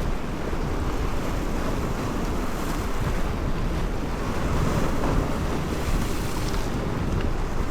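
Wind buffeting the microphone over the steady wash of sea water around a small boat.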